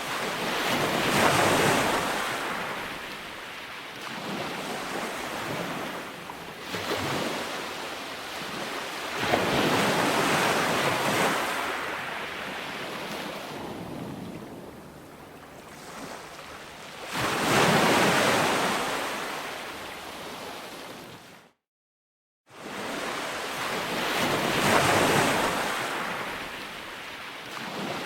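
Calm ocean surf breaking on a sandy beach, each wave swelling and washing back out, about one every eight seconds. About three-quarters of the way through, the sound drops out completely for about a second, then resumes.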